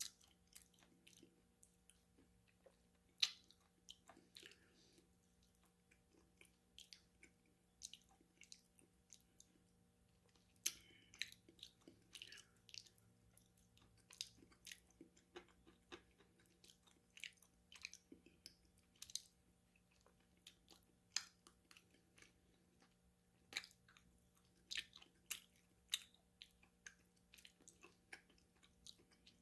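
Close-miked ASMR chewing and biting of crunchy food: sharp, irregular crunches and mouth sounds, with no talking.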